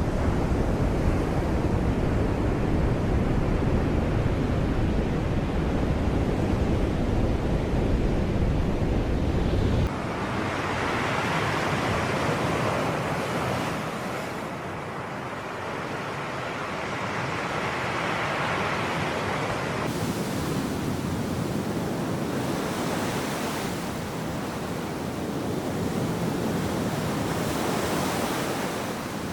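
Sea surf: waves swelling and falling back every few seconds. For the first ten seconds or so a heavy low wind rumble on the microphone lies under it and is louder, then stops abruptly.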